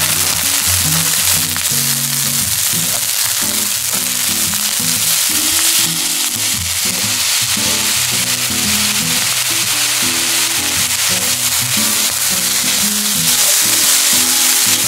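Steamed rice and sliced green onion frying in oil in a hot nonstick pan: a steady sizzle, stirred with a spatula. It grows brighter about halfway through as soy sauce is poured onto the bare pan and bubbles.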